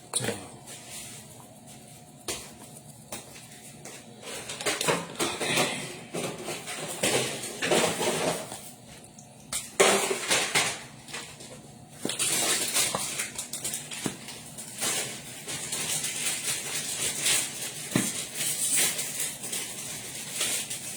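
Dishes and food containers being handled, with scattered knocks and clatter and one louder knock about ten seconds in.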